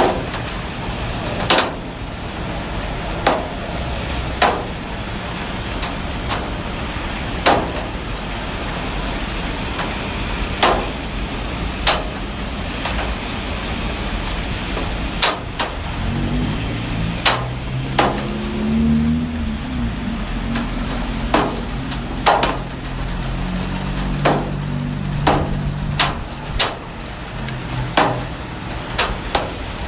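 Heavy rain falling steadily, with irregular sharp knocks, one every second or two, like large drops striking something hard. From about halfway through, a low engine hum joins in for several seconds, wavering in pitch, then fades out.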